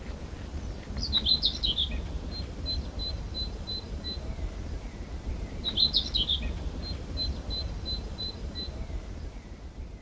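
A songbird singing two phrases about five seconds apart. Each opens with a quick jumble of high notes and trails into a string of short, evenly spaced chirps, over a low rumble of wind on the microphone.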